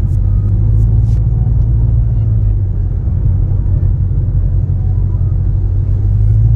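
Mercury Grand Marquis 4.6-litre V8 running with its mufflers deleted and the catalytic converters kept, giving a steady low exhaust rumble. Near the end the engine note picks up slightly and gets louder.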